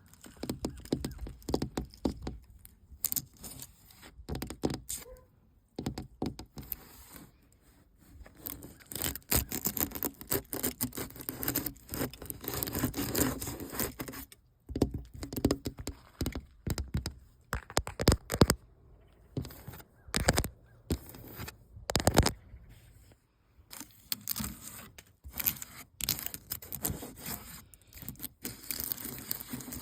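Close-miked scraping and tapping on the painted surface of an old building: a dense run of dry scratches, clicks and crackles, broken by a few short pauses.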